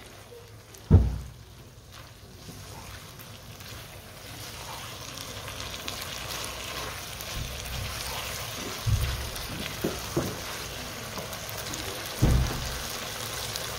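Chicken and vegetables sizzling in a non-stick wok as they are stir-fried with a silicone spatula, the sizzle growing louder after about four seconds. A few dull knocks break in, the loudest about a second in.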